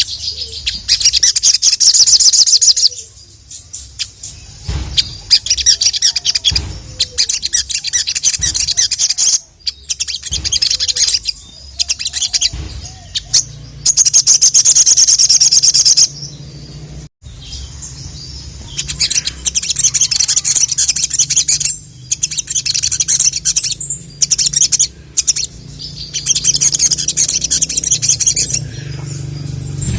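A sogon (sogok ontong), a small nectar-feeding songbird, singing in loud, rapid, high-pitched chattering trills, in phrases of one to three seconds with short pauses between them. It is the full-repertoire 'gacor' song that keepers use to call up other sogon.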